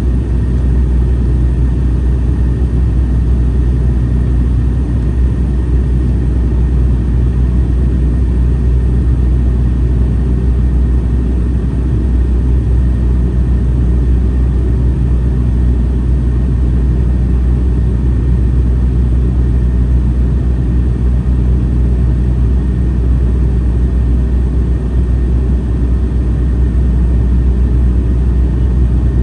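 Airliner cabin noise in flight: the engines and airflow make a steady, loud low rumble with a few faint steady tones above it, unchanging throughout.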